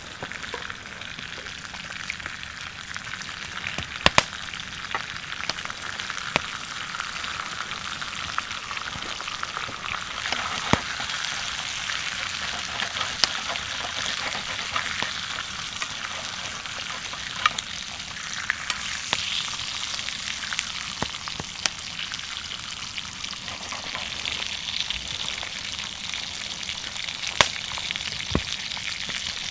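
Steak sizzling over a campfire: a steady frying hiss with sharp pops and crackles now and then.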